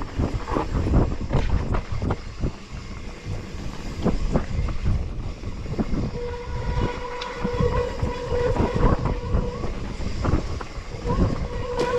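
Bicycle rattling and jolting over a rough trail, a dense run of knocks and bumps. About halfway a steady, slightly wavering whine comes in and holds.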